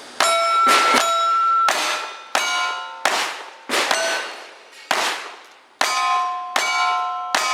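Steel targets ringing with a bell-like clang as they are hit in quick succession, about ten hits at a steady shooting pace, each ring dying away before the next.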